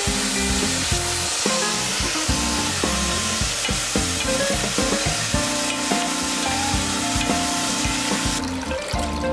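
Radish cubes and beef sizzling in chili-seed oil in a pot while being stir-fried with two wooden spatulas, which knock and scrape against the pot. The sizzle cuts off about a second before the end.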